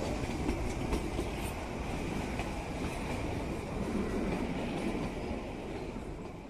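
Kalka–Shimla narrow-gauge toy train running, heard from the carriage window: a steady rumble of wheels on the rails with a few light clicks. It fades away near the end.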